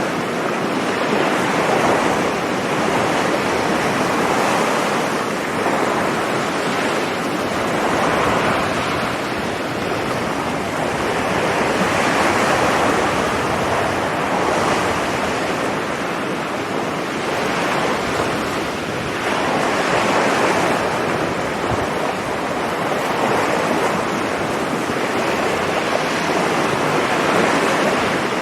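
Sea surf breaking and washing up a beach, a continuous rushing with swells every few seconds, with some wind on the microphone.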